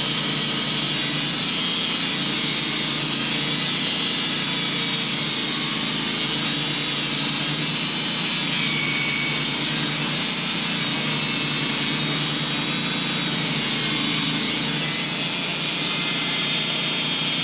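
Sawmill running under load, its engine pulling steadily as the blade cuts a slab off a large hickory log, making a loud, even hiss.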